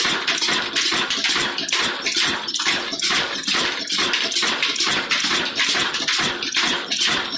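Old Ruston Hornsby diesel engine running at a steady speed, its exhaust beating evenly at about four beats a second.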